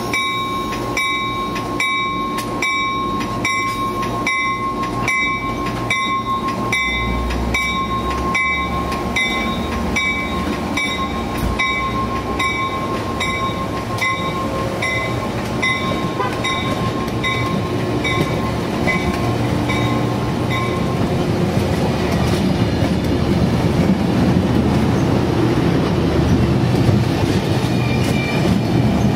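Amtrak passenger train of Amfleet coaches rolling out of the station close by, its wheels clacking and rumbling along the rails. A bell rings steadily about twice a second until roughly two-thirds of the way through, then stops, and the rumble of the passing cars grows louder.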